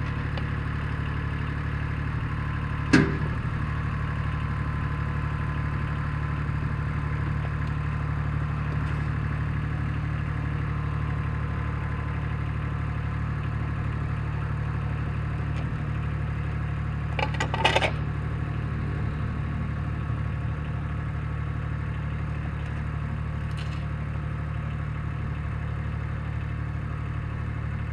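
Satoh Mitsubishi compact tractor's engine running steadily, with a sharp knock about three seconds in and a brief clatter a little past the middle.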